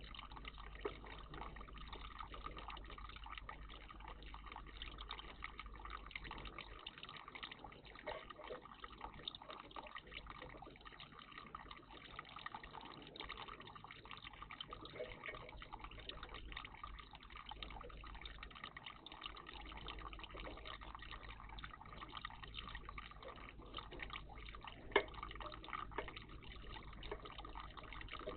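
Water trickling and dripping steadily in a garden bird bath, with small splashes and ticks throughout and a single sharp click near the end.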